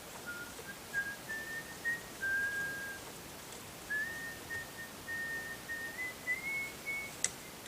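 A person whistling a tune, a string of short held notes stepping up and down in pitch. A sharp click near the end.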